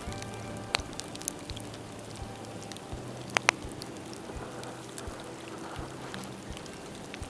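Bonfire of dead bamboo crackling, with scattered pops and two sharp cracks about three and a half seconds in.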